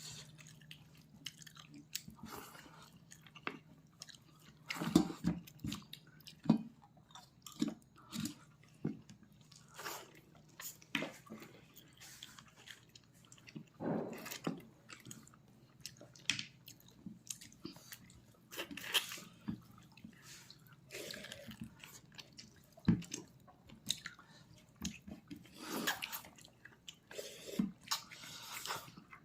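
A person chewing and biting pork leg close to the microphone, with irregular wet smacks and clicks coming every second or so.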